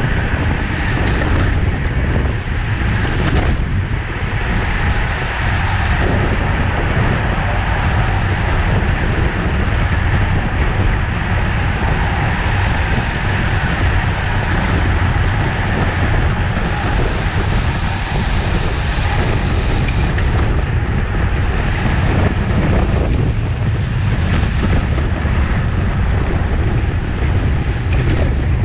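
Steady wind noise buffeting the microphone of a camera on a racing bicycle at race speed, with road and tyre noise beneath.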